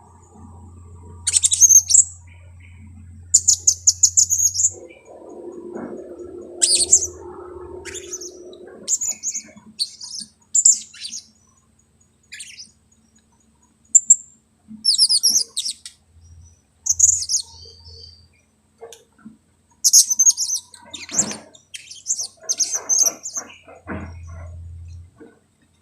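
Blue-crowned hanging parrots (serindit) calling: short, very high-pitched chirps in scattered quick clusters, from a lively decoy bird used to lure wild ones. A low hum comes and goes underneath.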